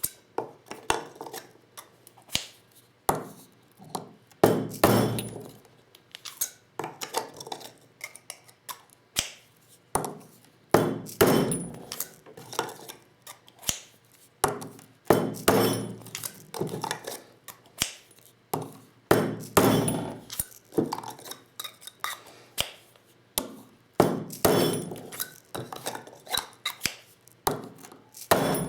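Repeated sharp knocks and metallic clinks of a vintage Lee Loader set, decapping 12-gauge shotgun hulls by hand. Irregular louder strikes every second or two, with lighter clicks between.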